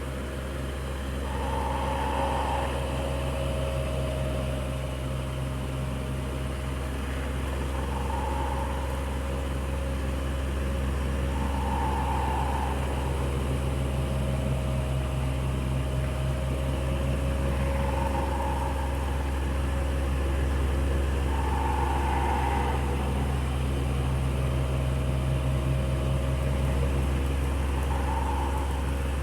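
Electric fan running steadily with a deep, even hum and a soft whir, plus a faint higher sound that swells briefly every few seconds.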